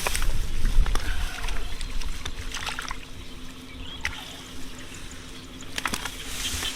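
Shallow field water sloshing and trickling as it is waded or handled, with a few sharp clicks and knocks.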